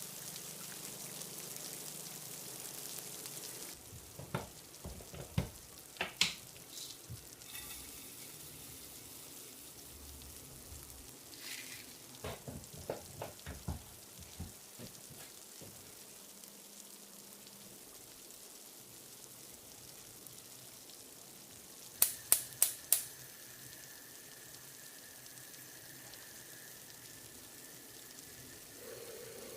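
Food frying in a pan with a steady sizzle. Scattered utensil knocks are heard, and a quick run of four sharp clicks comes about two-thirds of the way through.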